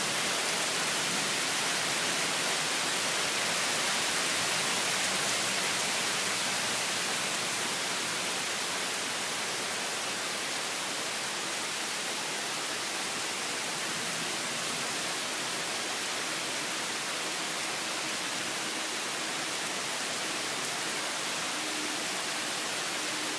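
Torrential rain pouring down steadily, a dense hiss that eases slightly about seven seconds in.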